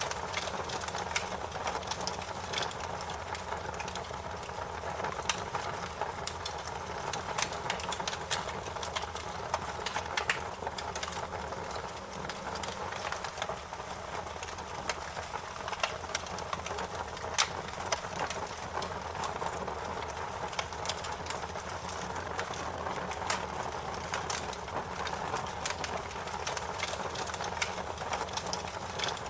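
Fire crackling, with frequent sharp irregular pops and snaps over a steady hiss.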